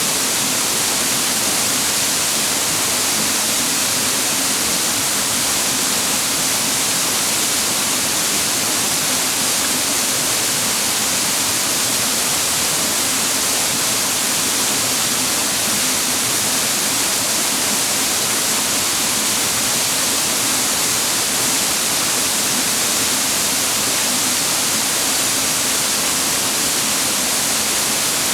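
Mountain waterfall: water falling and rushing over rocks in a steady, unbroken hiss.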